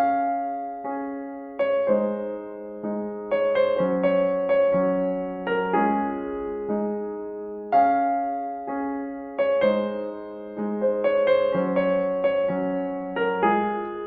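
Slow, gentle solo piano music: single notes and chords struck about once a second, each ringing and fading before the next.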